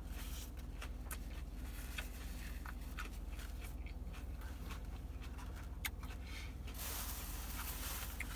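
Close-up chewing of a mouthful of food with the mouth closed: soft, scattered wet clicks and smacks over a steady low hum. About seven seconds in comes a breathy hiss lasting a second and a half.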